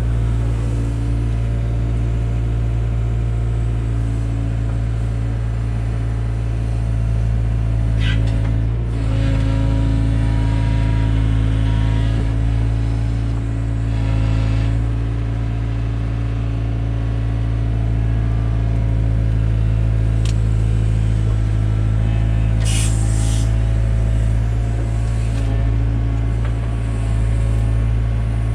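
Takeuchi TB175 compact excavator's diesel engine running steadily at working speed, its pitch swelling slightly a couple of times as the hydraulics take load. A few brief sharp noises stand out over it.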